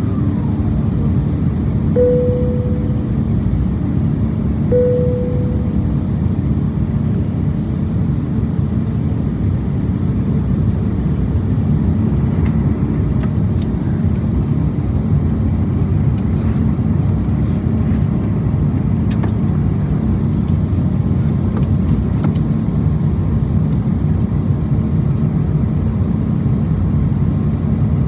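Steady cabin noise inside an Airbus A350-1000 airliner: engine and airflow rumble. Near the start come two short, fading chime tones at the same pitch.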